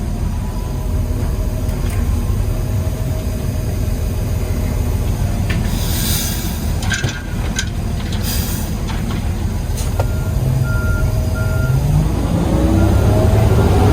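Peterbilt 320 garbage truck heard from inside the cab: its diesel engine running steadily, with two short hisses of air around the middle. A reversing beeper sounds about ten seconds in, and the engine revs up near the end.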